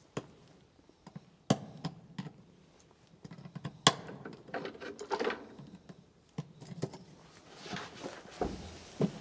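Farrier's hammer striking during horseshoeing work: several sharp metallic knocks spaced a second or more apart, the loudest about four seconds in, with stretches of scraping between them.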